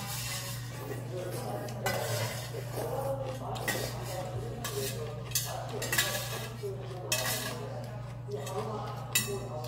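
Eating utensils clinking and scraping against a noodle bowl, several separate sharp clinks, over a steady low hum.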